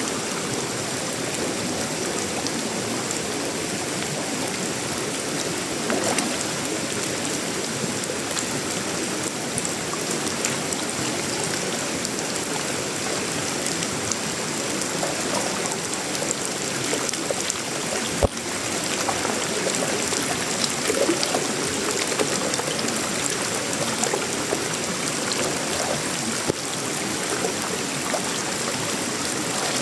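Steady tropical rain falling on a sheet-metal roof, wood and leaves, with one sharp knock a little past halfway through.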